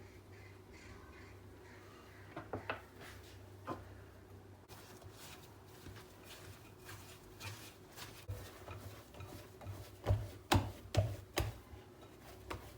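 Light knocks and taps of objects being handled over a faint steady hum, with several louder knocks in quick succession about ten seconds in.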